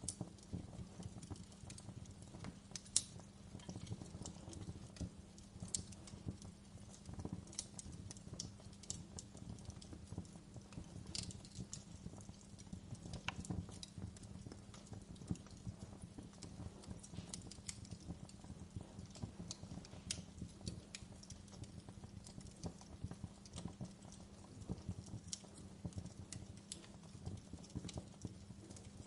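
Wood fire in a fireplace crackling: irregular sharp snaps and pops, the strongest about three seconds in, over a steady low rumble.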